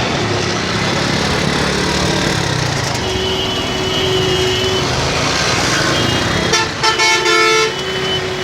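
Road traffic noise heard from a moving motorcycle, with vehicle horns: one horn held for about two seconds partway through, then a louder horn giving a few short honks near the end.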